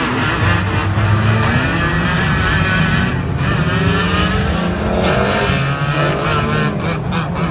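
Several 2-litre banger cars' engines revving hard at once, their pitches rising and falling against each other as the destruction derby gets under way.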